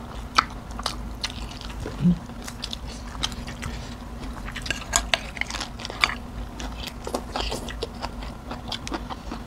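Close-up chewing and biting of food, chicken gizzard curry with rice and raw vegetables, with many sharp wet mouth clicks and crunches scattered throughout, and a short low hum about two seconds in.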